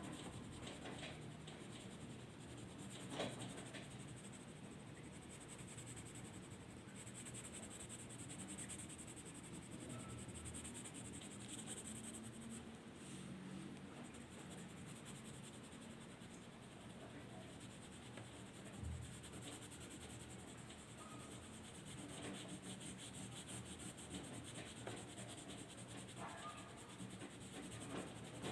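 Faint, continuous scratching and rubbing of a drawing tool on paper, with a single sharp tap about three seconds in.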